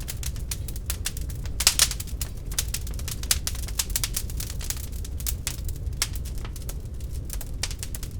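Wood fire in a fireplace crackling: irregular sharp pops and snaps over a low steady rumble of the flames, with a louder cluster of pops about two seconds in.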